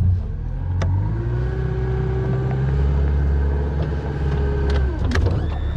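Boat's outboard motor running hard under load, trying to push the hull off a stump it is hung up on; the engine note holds, then falls away as it is throttled down about five seconds in.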